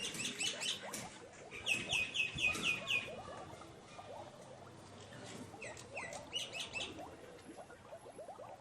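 Several small birds chirping and twittering together, with a quick run of sharp, high chirps, about six a second, around two seconds in and another short series about six seconds in, over a lower, busy chatter.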